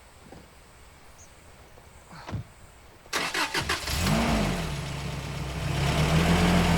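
A vehicle engine is cranked and starts about three seconds in. It revs up briefly, drops back and then runs steadily.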